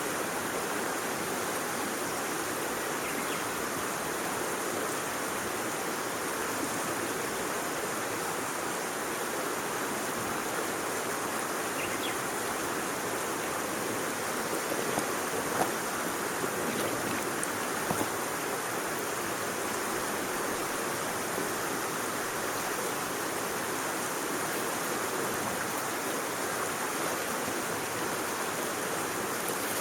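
Steady, even rushing noise like flowing water, with a few faint clicks around the middle.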